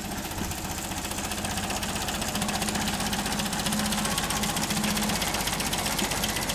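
1953 MG TD's 1250 cc XPAG four-cylinder engine idling steadily with an even, rapid pulse, freshly started and only run for a few minutes.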